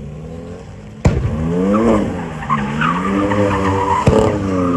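A car engine revving up and down hard while its tyres squeal in a drift or donut. Two sharp bangs cut through, about a second in and again near the end.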